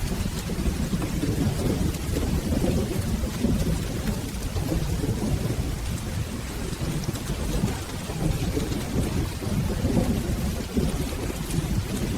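Steady rain with a continuous low rumble of rolling thunder underneath.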